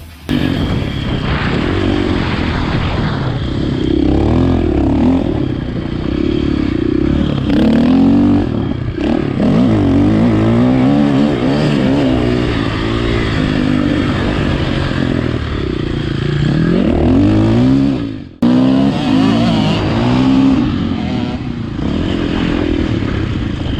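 Motocross dirt bike engine revving hard and easing off again and again, its pitch climbing and falling with each burst of throttle and gear change. There is a sudden brief break about eighteen seconds in.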